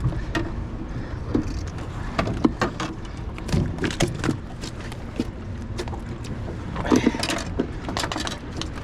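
Handling noises from a landed catfish and its hook rig: scattered clicks and knocks over a steady low rumble.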